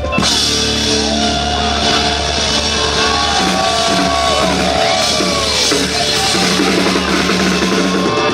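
Live rock band playing, with drum kit, bass and guitar.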